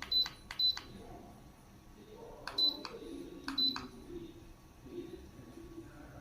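Humidifier control panel beeping as its buttons are pressed: a short high beep with each press, twice near the start and twice more about a second apart a few seconds in.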